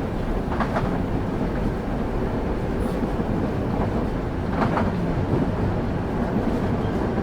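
Railway wheels rolling on the track, heard from inside a moving passenger carriage: a steady low rumble, with short clusters of clacks from the wheels passing rail joints twice, about half a second in and again a little past the middle.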